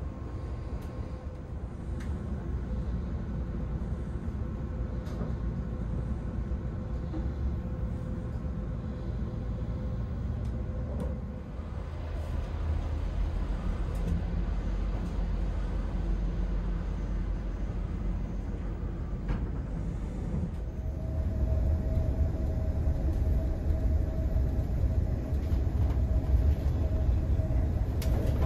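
Cabin noise of an ÖBB Railjet passenger car running at speed: a steady low rumble of wheels on the track, getting louder over roughly the last third.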